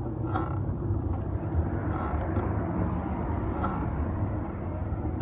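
Fixed-gear bike being ridden, heard through a handlebar-mounted phone: a steady rumble of wind and tyres on the road, with a short click about every second and a half.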